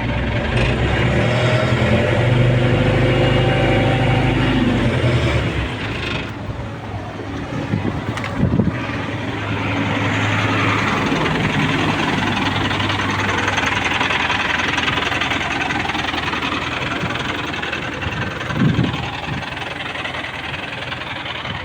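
A vehicle engine running at idle, steady at first and changing in tone about five seconds in, with a couple of short thuds, one around eight seconds in and one near the end.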